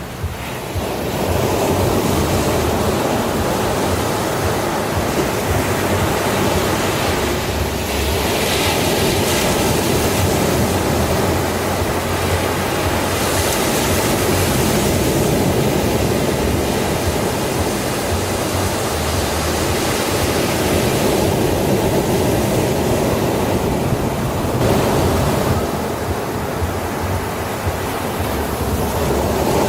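Sea waves breaking on a beach: a continuous wash of surf, the hiss swelling and easing every few seconds as waves break and run up.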